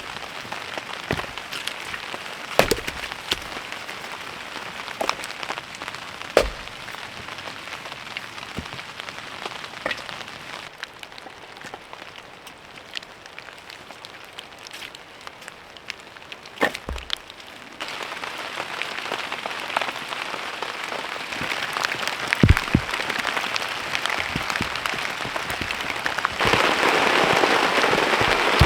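Rain falling steadily, with scattered sharp ticks and pops. The rain gets louder about two-thirds of the way in and louder again near the end.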